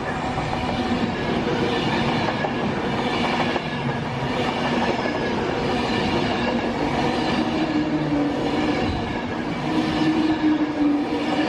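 Passenger train running along the line past the platform, with wheels clattering on the rails and a steady motor hum.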